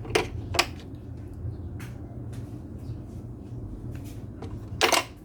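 Sharp clicks and knocks of tools and parts being handled during a repair: two close together near the start, a louder one near the end, and faint ticks between, over a steady low hum.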